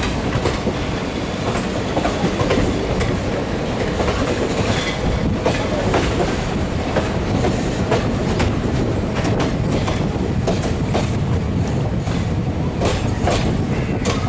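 Passenger train running, its wheels clattering over rail joints: a steady heavy rumble with repeated sharp clicks, more frequent in the second half, heard from near the carriage doorway.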